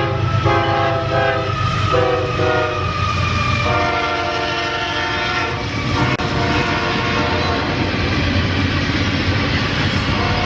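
A locomotive's multi-chime air horn sounds a series of blasts, one short and the last long, over the steady rumble of a passing train. After the horn stops, the rumble of the train continues.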